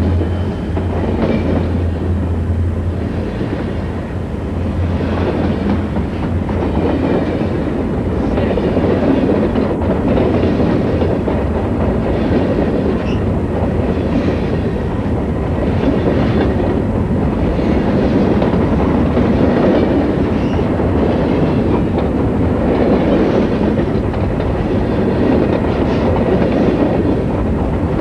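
Southern Pacific freight train rolling past, its wheels clicking over rail joints over a continuous rumble. A low diesel drone fades away about three seconds in.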